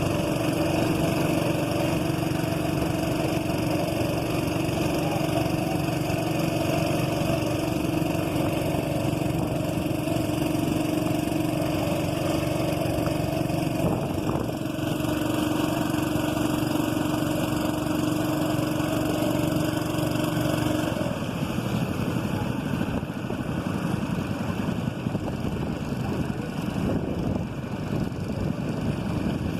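A motorboat engine running steadily at a constant speed. Its steady hum drops away about two-thirds of the way through, leaving a rougher, noisier engine sound.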